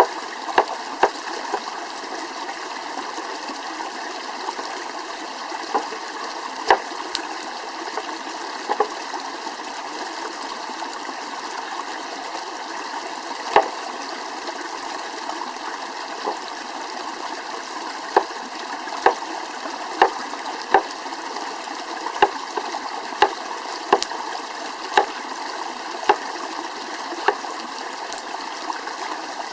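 Steady rush of a flowing stream, with sharp knocks over it: scattered at first, then about one a second through the second half.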